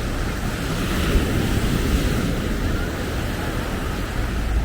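Ocean surf breaking on the beach as a steady wash of noise, with wind rumbling on the microphone.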